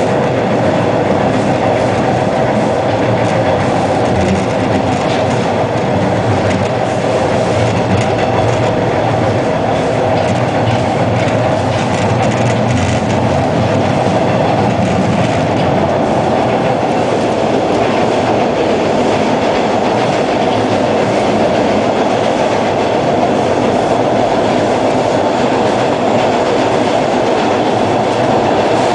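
Hawker Siddeley H4 subway car heard from inside, running steadily along the track with a continuous loud rumble and wheel-on-rail noise.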